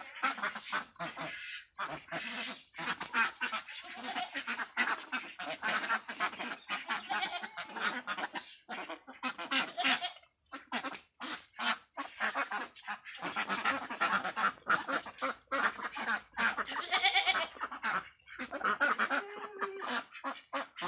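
A flock of farm ducks quacking loudly together, many calls overlapping in a continuous clamour with only brief pauses.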